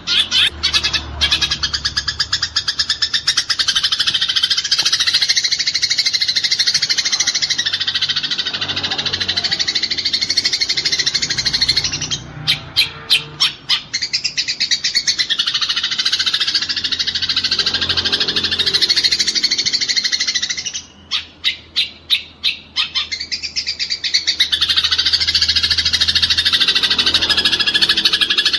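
Eurasian tree sparrows chattering in fast, dense trills of rapid chirps, the agitated calls of sparrows fighting. Twice the run breaks into a short string of separate chirps before the fast chatter resumes.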